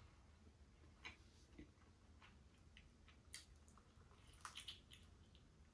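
Near silence with faint mouth sounds of someone eating a cheese pizza slice: a few soft clicks of biting and chewing, with a small cluster of them about four and a half seconds in.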